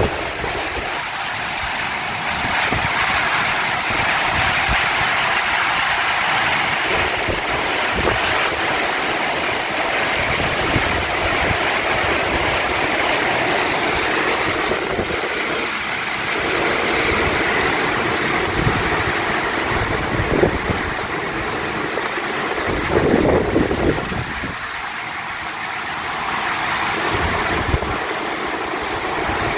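Heavy summer-storm rain pouring down as a steady hiss, with gusts of wind rumbling on the microphone that are strongest about three-quarters of the way through.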